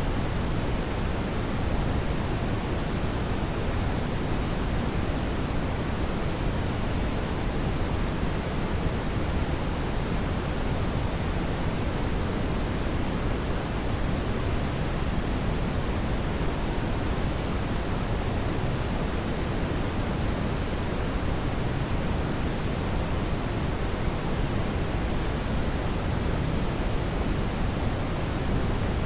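Steady brown noise: an even, deep hiss with its weight in the low end, unchanging throughout.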